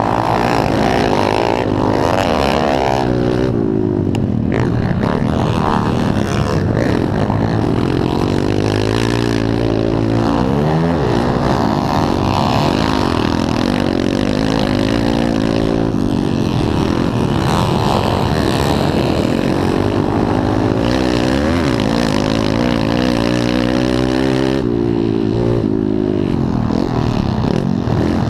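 Pit bike engines racing on a motocross track, several at once, their pitch rising and falling as riders rev up, shift and back off.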